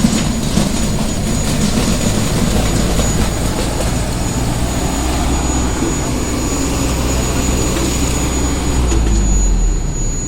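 Tafe 6028 tractor's diesel engine running steadily under load, swelling slightly near the end and easing off about nine and a half seconds in, with a thin, steady high whistle over it.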